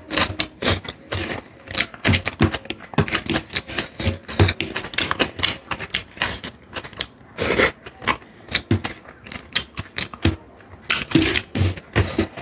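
Close-up eating sounds: chewing and mouth smacking over mouthfuls of mutton curry, in quick irregular clicks and wet smacks.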